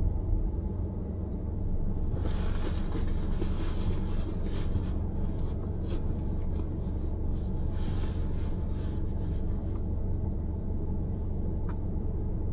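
Car driving through city streets: a steady low road rumble, with a hiss of tyre or traffic noise joining in about two seconds in and fading out about ten seconds in.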